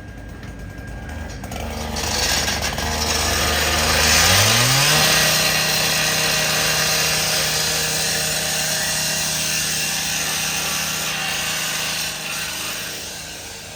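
Power saw cutting a metal security gate: its engine revs up about four seconds in and then holds steady under a harsh, loud cutting hiss that eases off near the end.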